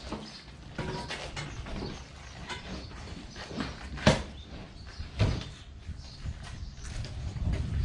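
Scattered knocks and thumps over a low rumble, the loudest about four seconds in.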